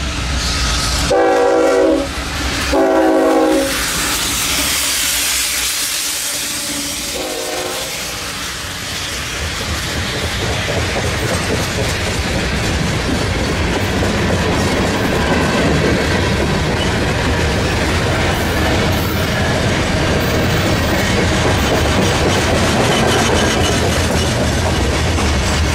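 Union Pacific diesel coal train at a grade crossing. The locomotive's air horn sounds two blasts of about a second each in the first few seconds and a shorter, fainter one about seven seconds in. Then the long string of coal cars rolls by with a steady wheel rumble and clickety-clack.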